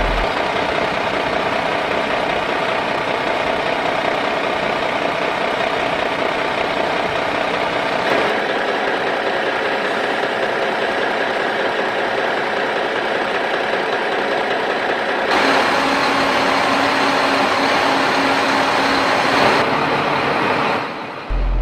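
A small motor running steadily, shifting in tone about eight seconds in and growing louder and brighter for a few seconds from about fifteen seconds in.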